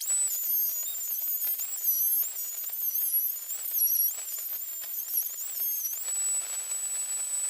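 A small high-speed electric power tool working plywood, its high whine dipping in pitch again and again as it bites, with a gritty cutting or sanding noise underneath. About six seconds in, the whine settles to a steady pitch.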